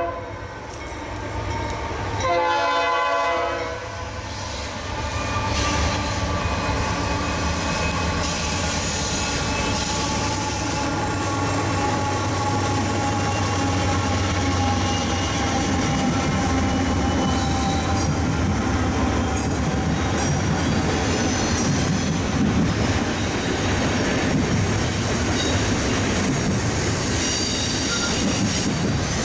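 Diesel-hauled freight train passing. A short locomotive horn blast sounds about two seconds in, then the locomotives' engines rumble steadily under the clatter of the wheels on the rails, with high steady squealing from the wheels.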